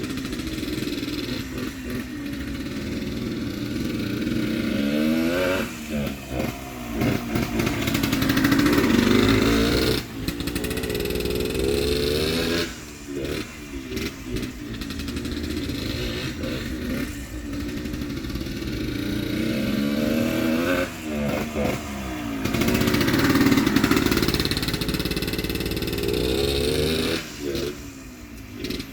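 Yamaha DT100 dirt bike's two-stroke single-cylinder engine, ridden around a backyard track. It revs up and backs off again and again, the pitch rising and falling every few seconds.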